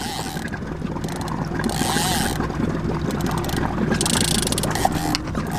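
Boat motor running steadily, with a short high rasping burst about four seconds in.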